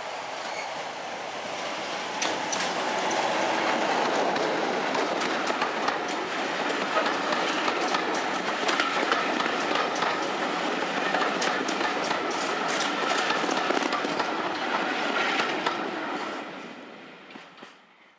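Class 33 diesel locomotive passing close by with its train of coaches, the wheels clattering over rail joints in a long run of clicks. The sound builds over the first couple of seconds and fades away near the end.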